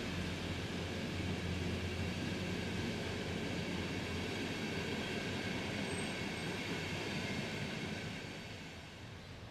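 Train wheels on the rails as passenger coaches roll past: a steady rumble and rush that fades away about eight seconds in, as the last coach goes by.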